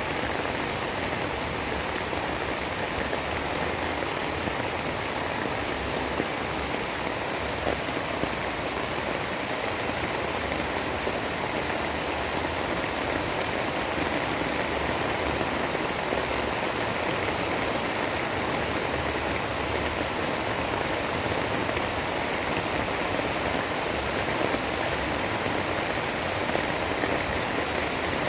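Steady rain: an even, unbroken hiss of falling water with a few faint separate drop ticks.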